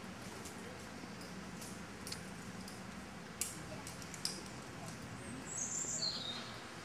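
A bird's short, falling chirp about five and a half seconds in, over a faint steady background, with a few sharp clicks scattered through.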